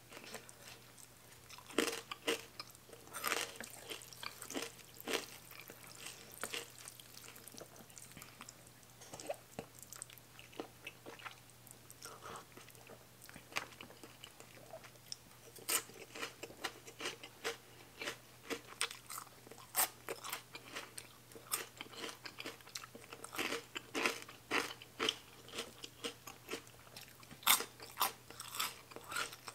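Close-miked chewing of a mouthful of rice noodles in spicy curry with fresh greens: irregular wet mouth clicks and crunches, some bunched into quick runs.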